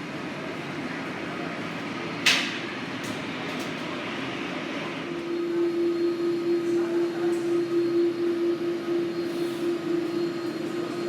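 Steady mechanical hum with one sharp knock about two seconds in; from about five seconds a steady low drone joins, pulsing slightly in loudness.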